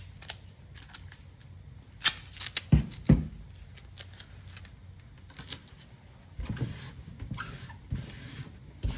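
Duct tape being handled and applied to a coated surface: scattered crinkles and clicks, two low thumps about three seconds in, and a longer rasping stretch near the end.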